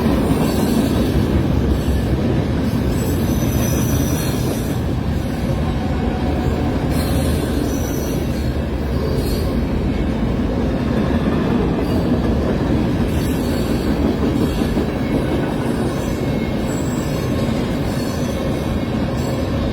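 Train cars rolling past on the track: a steady loud rumble of wheels on rail, with a few faint, brief high wheel squeals.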